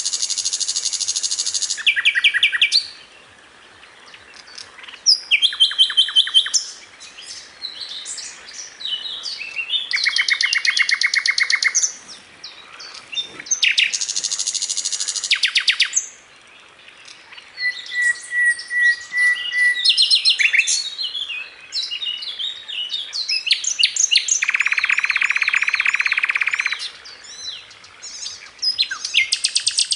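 A sikatan londo flycatcher singing at full volume in a varied run of song. Rapid rattling trills of one to two seconds alternate with quick chirps, one lower buzzy trill sits near the end, and a short steady whistle comes in the middle.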